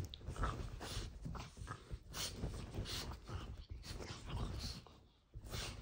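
A dog making faint, short sounds in irregular bursts; the sound drops out briefly about five seconds in.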